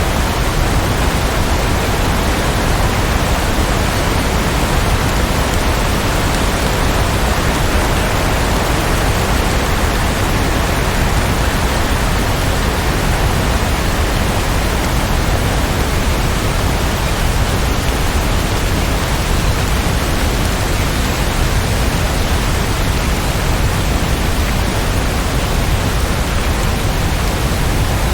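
Heavy rain falling in a steady, dense hiss, with no separate drops or thunder standing out.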